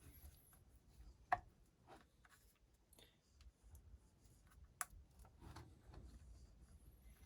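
Faint handling sounds of motorcycle engine parts being worked by hand: light scattered clicks, with two sharper clicks, one just over a second in and another near five seconds.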